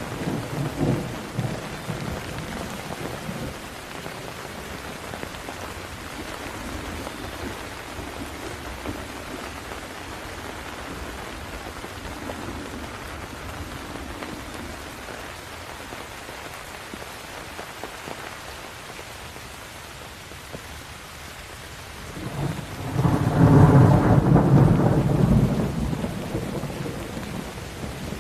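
Steady rain falling during a thunderstorm, with a rumble of thunder dying away in the first few seconds and a louder, longer roll of thunder building about 22 seconds in, then fading near the end.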